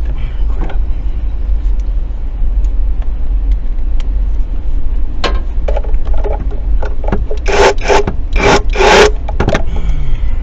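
Hand tools and engine parts scraping and knocking during work on the V6's intake, in a few rough bursts partway through and near the end, over a steady low rumble.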